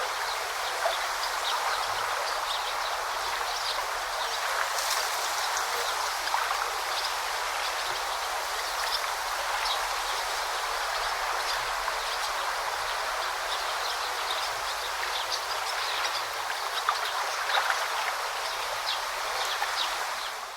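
River water flowing and babbling steadily, with many short high chirps of birds scattered over it. The sound fades out at the very end.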